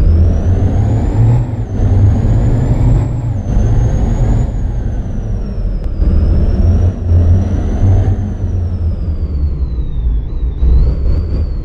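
Heavy truck engine running with a loud, steady low rumble, over which a thin high whine rises and falls in pitch, dipping briefly a few times.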